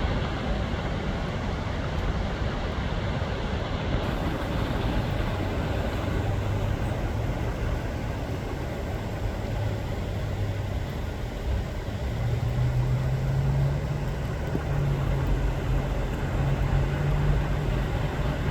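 A vehicle engine running under a steady rushing noise, its low hum rising in pitch about two-thirds of the way through.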